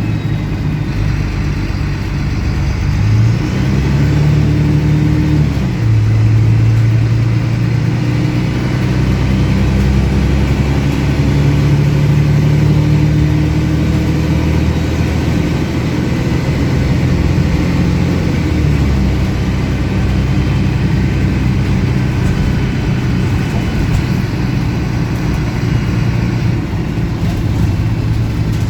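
Diesel engine of a MAN 18.220 single-decker bus pulling away and running through its gears, heard from on board, its engine note rising and falling at each gear change. The exhaust is louder than usual for this bus.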